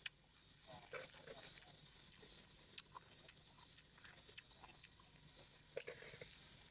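Faint mouth sounds of someone chewing a mouthful of papaya salad: scattered wet clicks and lip smacks, with a sharp one right at the start.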